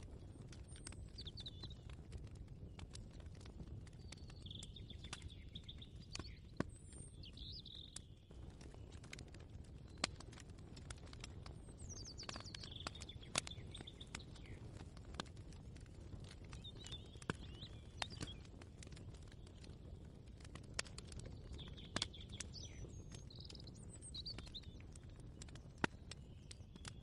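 Ambient soundscape: small birds chirping in short phrases every few seconds over a steady low hum, with scattered light clicks and taps throughout.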